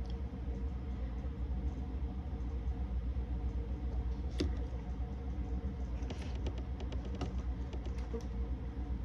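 Eating sounds: small clicks and crackles of chewing and handling food, more of them a little past the middle, over a steady low hum.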